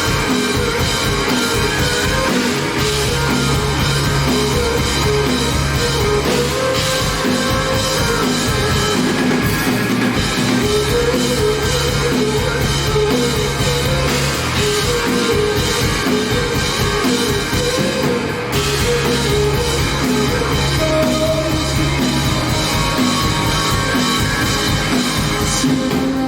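Rock band playing live, loud and steady, a drum kit keeping a regular beat under guitars and bass.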